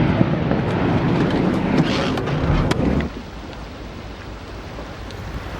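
Strong storm wind rushing over the microphone, with a few sharp knocks. It drops suddenly about three seconds in to a quieter, steady wind rush.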